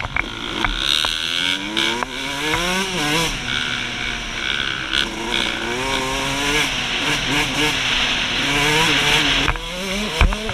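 2003 Suzuki RM125's two-stroke single-cylinder engine being ridden hard, its pitch climbing as it revs out and dropping back off the throttle again and again.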